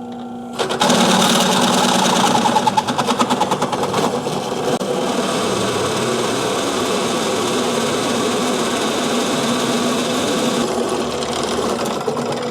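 A drill with a sharp 11/16-inch bit boring through steel. It bites in about half a second in with a loud cutting whine that chatters for a couple of seconds, then cuts steadily and eases off near the end as the hole goes through.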